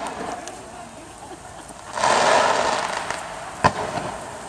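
Fireworks going off: a sharp bang at the very start, a loud crackling burst about two seconds in that fades over a second or so, and another sharp bang near the end.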